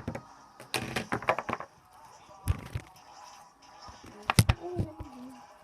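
Knocks, clicks and bumps of hands handling things close to the microphone: a cluster of small clicks about a second in, a thump, and a sharper pair of knocks near the end, followed by a brief wavering pitched sound.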